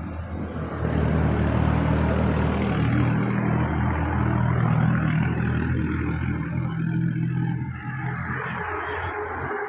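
An engine running, loud and steady, easing off a little near the end.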